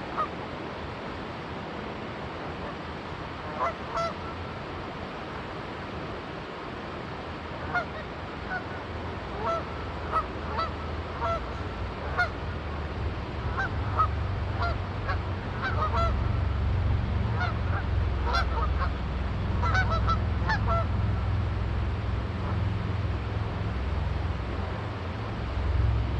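Canada geese honking in short, scattered calls, most of them in the middle of the stretch, over a steady rush of river water. From about halfway in, a low engine drone builds underneath and grows louder.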